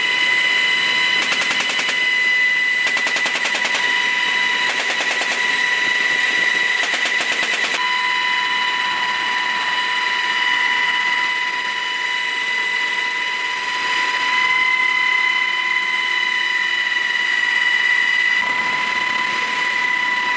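Four bursts of rapid fire from a helicopter door-mounted .50-calibre machine gun in the first eight seconds, each a second or less long, over the helicopter's steady high-pitched whine, which carries on alone afterwards.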